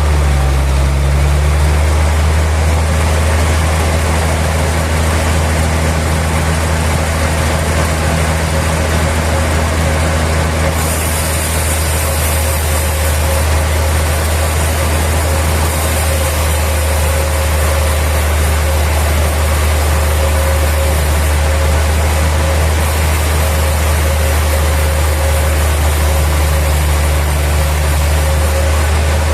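Sawmill machinery running steadily with a deep, even hum and a constant tone above it; a high hiss joins about a third of the way in and carries on.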